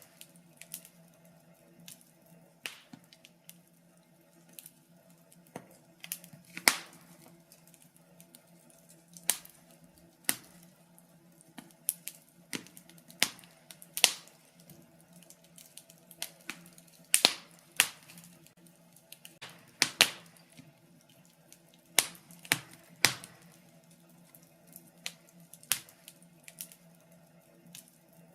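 Wood fire crackling in a fireplace: irregular sharp pops and snaps, one or two a second, some much louder than others, over a faint steady hum.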